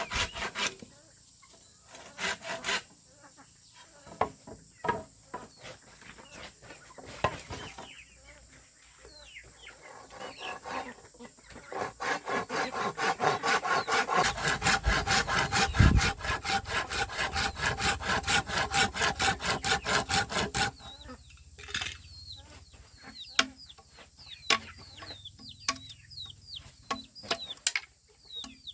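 Hand saw cutting through wood in a steady back-and-forth rhythm, about three to four strokes a second, in a long run through the middle. Short chirping calls from chickens near the end.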